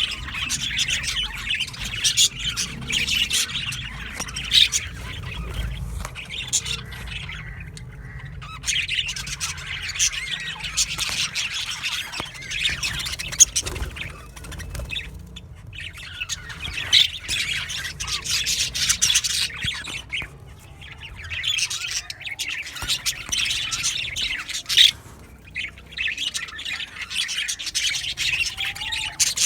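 A flock of budgerigars chattering, chirping and squawking together in an aviary, in busy spells broken by brief lulls.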